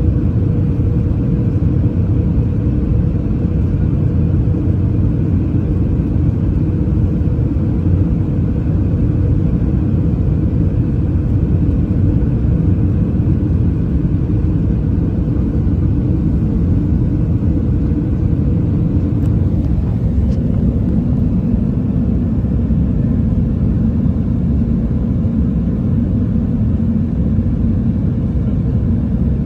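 Airbus A319 cabin noise: the engines and airframe making a steady low rumble, with an engine tone that drops away about twenty seconds in as the thrust changes.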